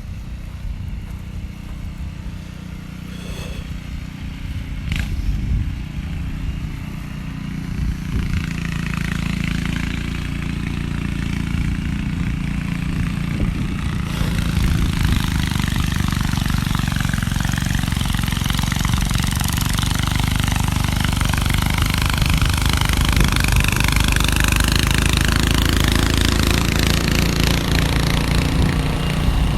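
An engine running steadily, with a rushing noise that builds from about eight seconds in and then stays loud.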